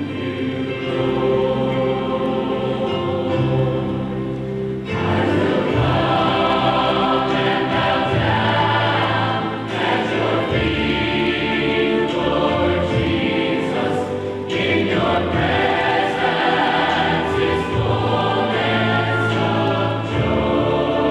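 A choir singing sustained chords in continuous music, with short breaks between phrases about five seconds in and again near fifteen seconds.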